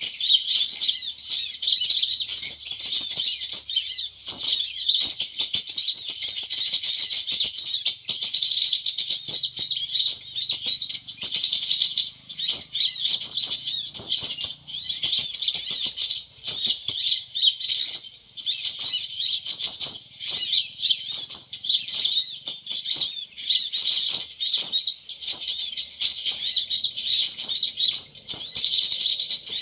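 Small birds chirping and twittering, high-pitched, rapid and without pause, with many short sharp clicks or taps mixed in.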